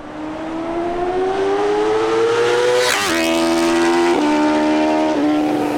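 BMW S1000RR's inline-four engine through an Arrow Competition EVO full exhaust, accelerating hard in a fly-by. The pitch climbs steadily, drops sharply as the bike passes about halfway through, then steps down twice as it shifts up and pulls away.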